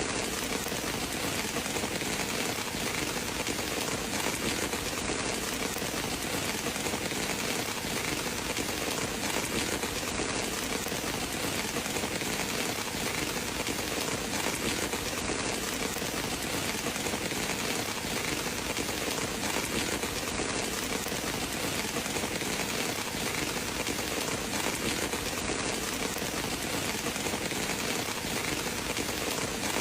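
Steady rain falling, an even hiss with no thunder claps or other sudden sounds.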